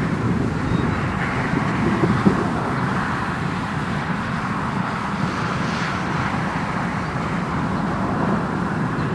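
Steady, distant roar from a supercell's hail shaft: a constant thunder-like rumble that holds at an even level.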